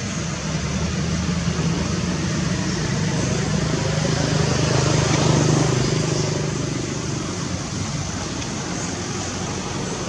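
A road vehicle passing by over steady background noise: its low engine hum builds, is loudest about halfway through, and fades away.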